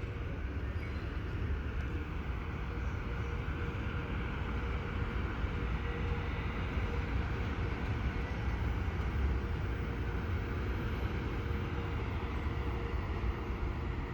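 Train running, a steady low rumble with a faint steady hum over it.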